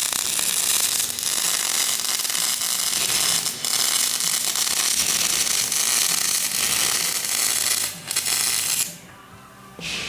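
Angle grinder working steel on the axle housing, a harsh, loud continuous grinding that dips briefly twice and cuts off about nine seconds in.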